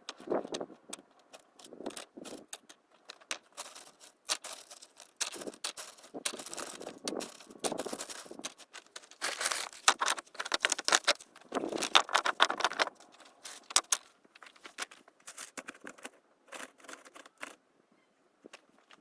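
Irregular clicks, scrapes and rustling of close handling noise, busiest through the middle and thinning out near the end.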